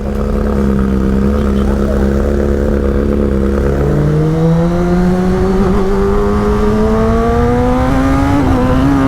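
Kawasaki ZX-10R's inline-four engine running under way, heard on the rider's camera. It holds a steady pitch, drops with an upshift about four seconds in, then rises slowly as the bike accelerates in the new gear.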